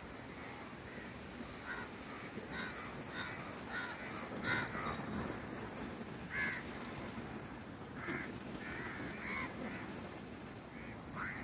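Crows cawing, many short calls one after another, over a steady background of wind or surf noise.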